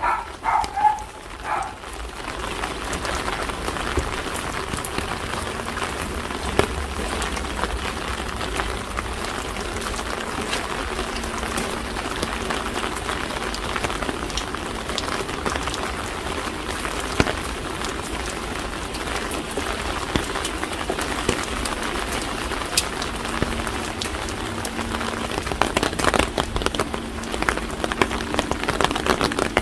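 Steady rain with many small drips ticking. A few short pitched calls sound in the first two seconds, and the drips come thicker and louder near the end.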